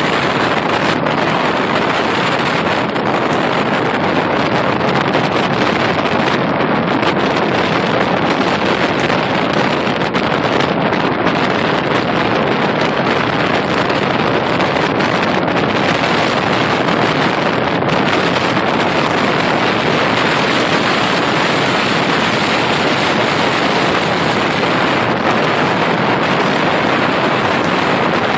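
Loud, steady rushing of wind over the microphone together with the road noise of a moving car.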